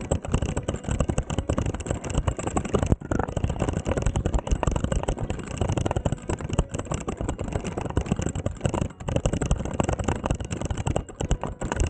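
Mountain bike riding down a rough dirt trail: steady, loud wind rumble on the microphone with a dense, uneven rattling and clatter from the bike over bumps.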